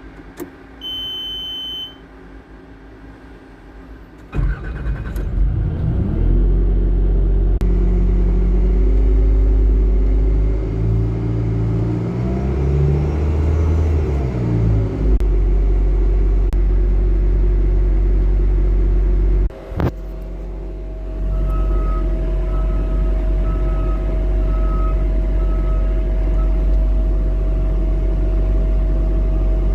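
Bobcat T590 compact track loader's diesel engine cold-started: a short beep, then the starter cranks and the engine catches, its speed rising and falling for several seconds before it settles into a steady run. Near the end the engine briefly dips, then runs on with a steady whine and a row of short beeps about a second apart.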